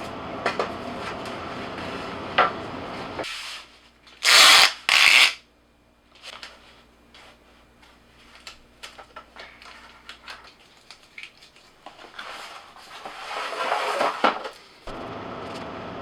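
Handheld power tool run in two short loud bursts, one right after the other, then scattered small clicks and knocks of handling wood and tools. Another longer spell of tool noise comes later.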